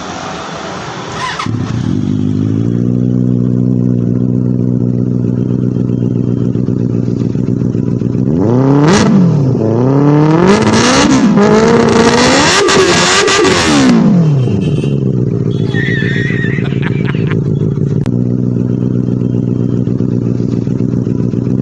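Motorcycle engine idling steadily, then revved up and down several times over about five seconds around the middle, before dropping back to a steady idle.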